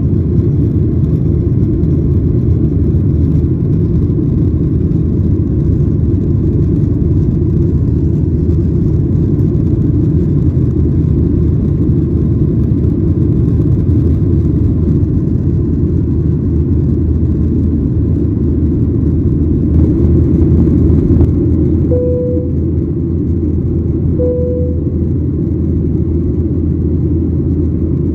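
Steady low rumble of engine and airflow noise heard inside the cabin of a Boeing 737-900ER airliner. Two short chime tones sound a couple of seconds apart near the end.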